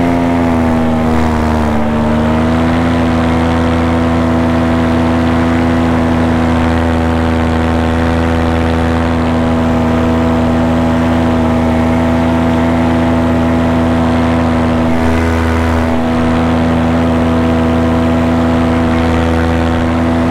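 Paramotor's backpack engine and propeller running steadily in flight, its pitch dipping slightly in the first couple of seconds and then settling back to a constant cruise.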